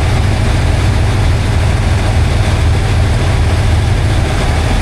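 Diesel locomotive engine running with a steady low drone and a constant rush of running noise.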